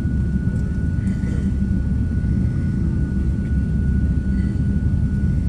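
Jet airliner engines rumbling steadily, with a thin steady whine held above the rumble.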